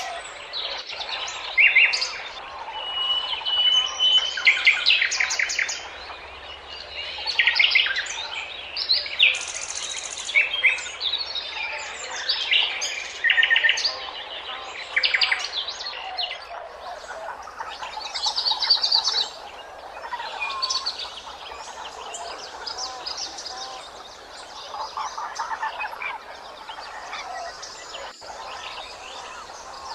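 Birds chirping and singing: many short chirps and quick trills, coming in loose clusters and overlapping.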